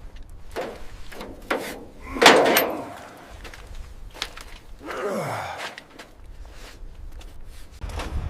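A few knocks and thuds, the loudest a heavy half-second thud about two seconds in, and a falling swoosh about five seconds in.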